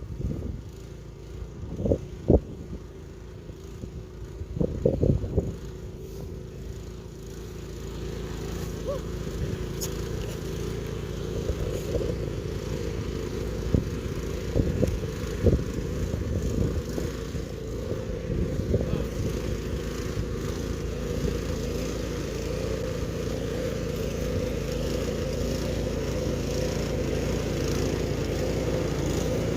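An engine running steadily and getting gradually louder, after a few knocks and scrapes in the first seconds.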